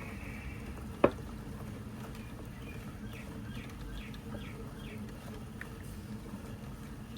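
A single sharp click about a second in, over a steady low hum. A bird chirps a quick series of about six short, falling notes around the middle.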